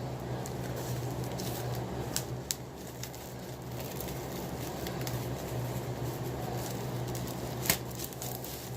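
Rustling handling noise, likely from the calendar and its wrapping, with a few sharp clicks over a steady electrical hum.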